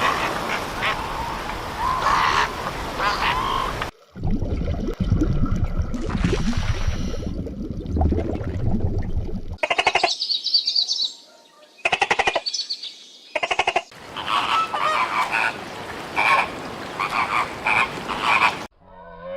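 A run of short animal-call clips one after another: a low rumbling stretch, then bursts of rapid, evenly pulsed calls, then a string of repeated short calls.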